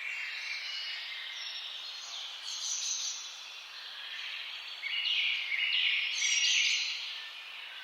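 Several songbirds singing and chirping over one another in a dense chorus, loudest in the second half.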